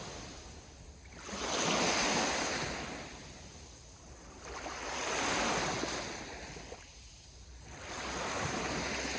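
Sea waves washing onto the shore: three surges of rushing water swell and fade, about three seconds apart.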